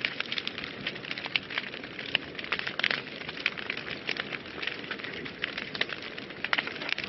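Wood fire burning in a fireplace, with a steady hiss under frequent sharp, irregular crackles and pops.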